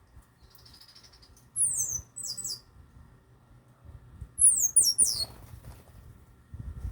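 Small birds giving sharp, very high-pitched chirps that fall steeply in pitch, in two quick clusters of two or three about a second and a half in and again past four seconds in, over a faint low rumble.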